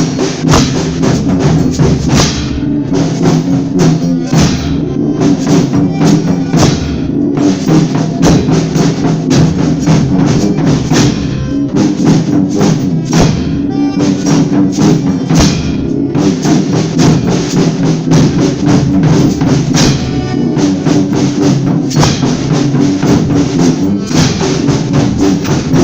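Folia ensemble playing an instrumental break between sung verses: drums and tambourine beating steadily under held instrumental notes.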